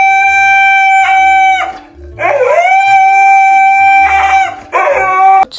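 A dog howling: long held howls that each slide up into a steady note. One ends about a second and a half in, a second runs for about two seconds, and a short third comes near the end.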